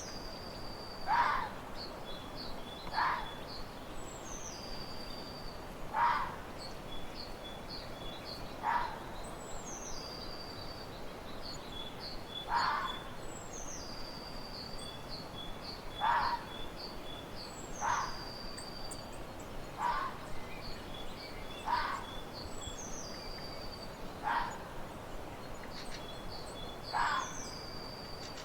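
Birds calling. A high whistled phrase slides down and holds, then breaks into a string of short chirps, repeating about every three seconds. Short lower calls, the loudest sounds, come every two to three seconds.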